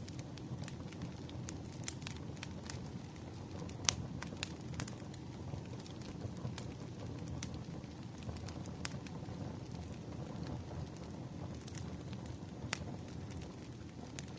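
Wood fire burning: a steady low rumble of flames with sharp crackles and pops of firewood at irregular moments, one louder pop about four seconds in.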